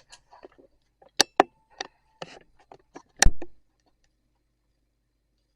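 A string of sharp knocks and clacks at irregular spacing, with one heavy thud a little past three seconds in that dies away briefly.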